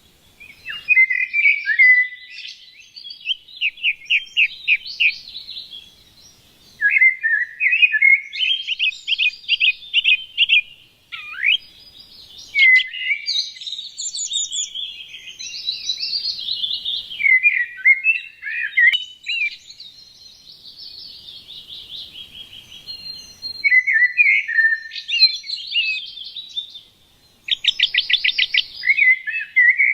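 Songbirds singing: long, varied phrases of rapid chirps, whistles and trills, broken by a short lull about six seconds in and another near the end.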